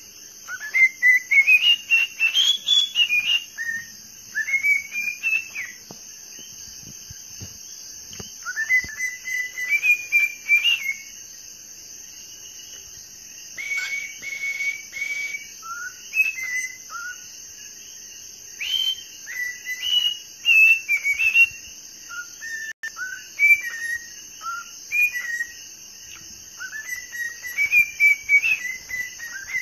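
A bird whistling in phrases of short gliding notes, some rising and some falling, separated by pauses of a second or more.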